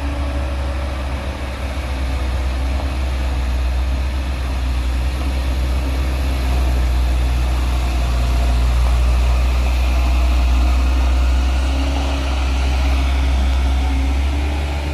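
Heavy truck engine running with a deep, steady rumble that grows louder past the middle and then eases off.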